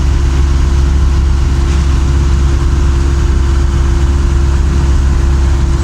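Steady low rumble of a moving road vehicle's engine and tyres, with a steady hum over it that cuts off near the end.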